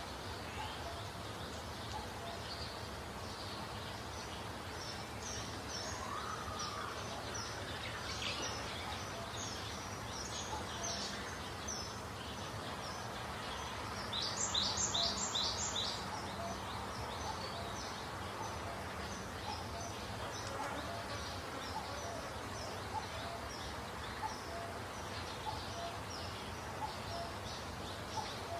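Outdoor ambience with small birds chirping over a steady background hiss: short, high chirps repeating throughout, with a run of four louder chirps about halfway through.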